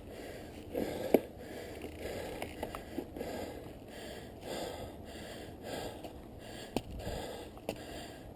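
A rider breathing hard and rhythmically while mountain biking, about one breath a second, with a few short sharp clicks between breaths.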